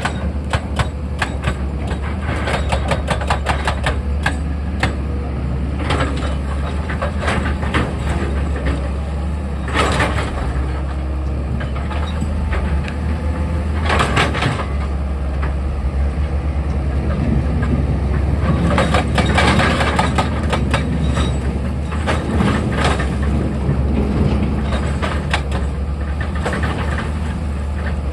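Excavator's diesel engine running steadily under load, with irregular knocks and clatter of rock and steel on top, bunching into louder stretches several times.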